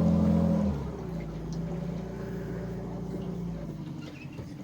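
Small boat's motor running at low speed while the boat is slowly manoeuvred in to tie up. It is throttled back about a second in and then runs on with a lower, steady hum.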